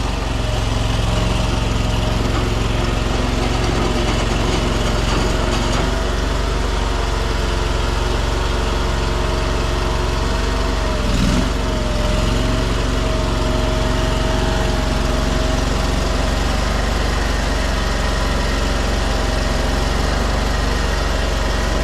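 Small gasoline engine of a Chinese mini skid steer running steadily, with a brief shift in its note about halfway through.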